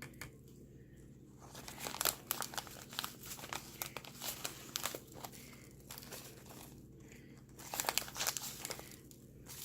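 Plastic packet of citric acid powder crinkling as a small measuring scoop is dug into it, in two spells of rustling and clicks.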